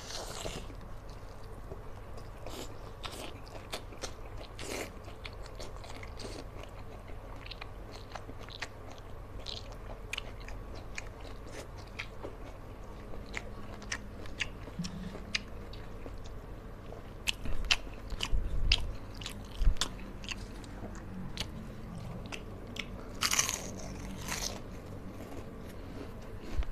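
Close-miked mouth sounds of a man eating rice and fried fish with crunchy crackers (kerupuk): steady chewing with many small crunches, louder crunching bursts about two-thirds of the way through and again near the end.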